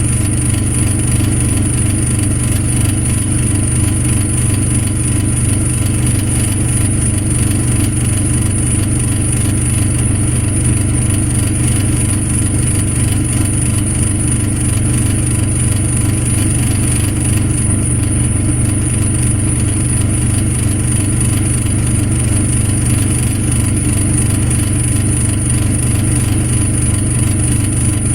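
Truck engine running steadily at an unchanging speed: a constant low rumble with a thin, steady high whine above it.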